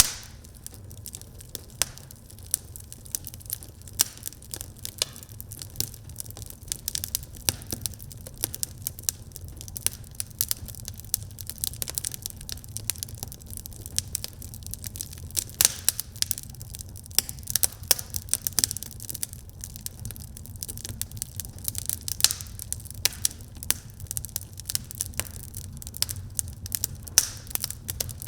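Wood fire crackling in a fireplace: many irregular sharp pops and snaps each second, a few louder than the rest, over a low steady rumble.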